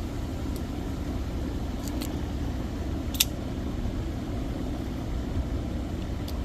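Steady low background rumble with a few short, sharp clicks, the clearest about three seconds in, from packaging being handled as a stuck sticker is worked loose on a concentrate container.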